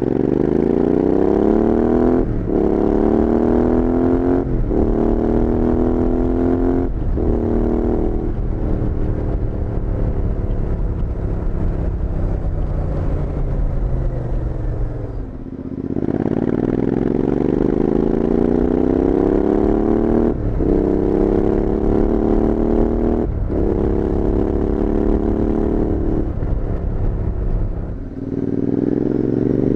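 Royal Enfield Interceptor 650's parallel-twin engine through Powerage Performance slip-on exhausts, pulling hard up through the gears with a short break in the note at each upshift. About halfway through the throttle is rolled off and the note falls away for several seconds. Then the bike accelerates through the gears again, backs off briefly near the end and picks up once more.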